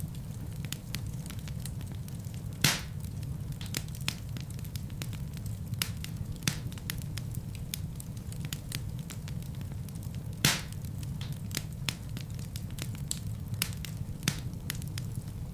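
Wood fire burning in a fireplace: a steady low rumble of flames with scattered crackles and snaps from the logs, and two louder pops, one about a quarter of the way in and one about two-thirds through.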